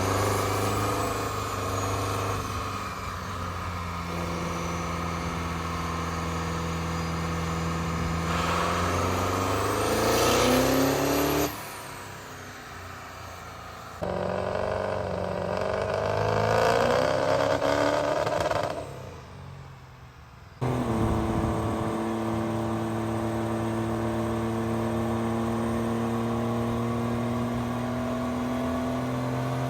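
Vehicle engines idling steadily and revving up twice with a rising pitch, each rev cut off abruptly by an edit, then settling back into a steady idle.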